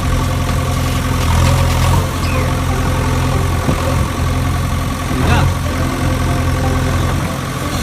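Steady engine-like drone of a running vehicle motor, even in level, with a few faint brief squeaks over it.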